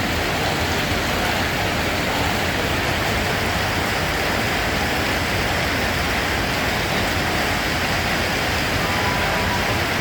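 Steady heavy rain, an even hiss of falling rain with no breaks.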